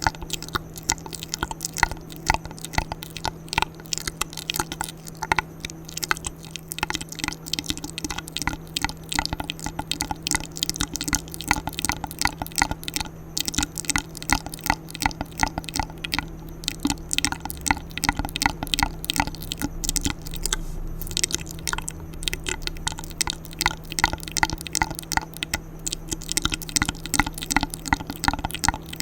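Wet ASMR mouth sounds: rapid clicks and smacks of lips and tongue in quick succession, over a faint steady hum.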